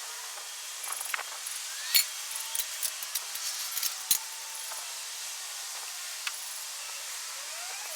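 A scatter of sharp clicks and knocks, the loudest about two seconds and four seconds in, from handling the metal frame and fittings of a portable garage tent as it is taken apart, over a steady hiss.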